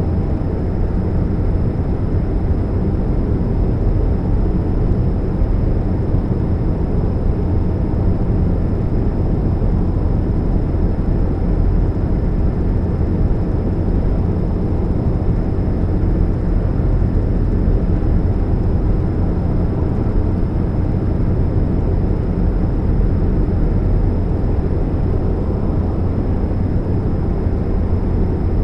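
2013 Chevrolet Spark running, with a steady low hum and rumble that holds level throughout. The owner puts the hum down to a leak at the catalytic converter.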